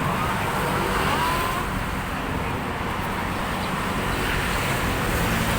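Steady rumble of passing road traffic, with faint voices in the background.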